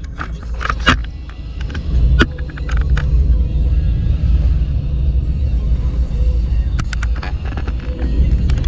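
Vehicle driving at highway speed: a steady low engine and road rumble, with scattered sharp clicks and taps over it.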